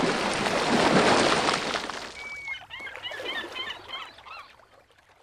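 A loud rush of noise for about two seconds, then a short whistle and a quick run of bird-like chirps that fade away.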